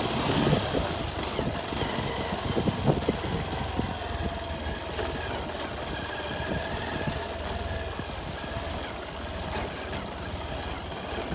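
Motorcycle engine running at a steady pace while riding, with scattered knocks and rattles in the first few seconds.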